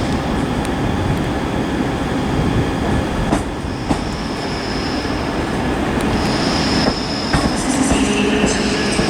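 ScotRail Class 385 electric multiple unit running slowly into a terminus platform, its wheels squealing at a high pitch on the rails. The squeal comes and goes, getting stronger about six seconds in, and lower whining tones join near the end as the train slows.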